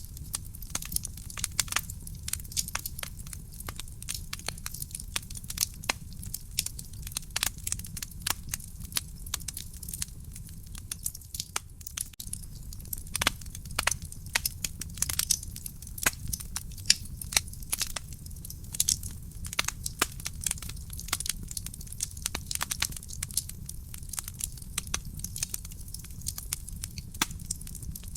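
Wood fire burning in a fireplace: dense, irregular crackling and sharp pops from the burning logs over a steady low rumble of the flames.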